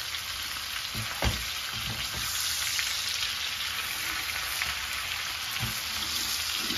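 Slices of floured calf's liver sizzling steadily in butter and oil in a hot frying pan, seared over high heat just after being turned. A meat fork knocks sharply against the pan about a second in, with a few fainter knocks later.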